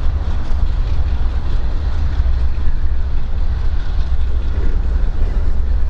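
Steady wind rumble buffeting the microphone, over the even hiss of heavy rain.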